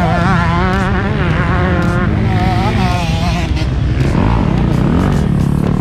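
Motocross bike engine running hard on the track, its revs rising and falling quickly and repeatedly.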